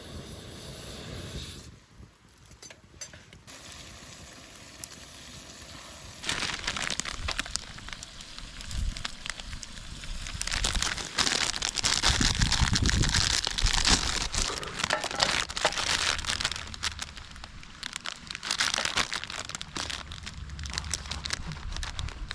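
Campfire cooking: a quiet hiss for the first six seconds, then dense crackling and popping that starts suddenly and is loudest in the middle.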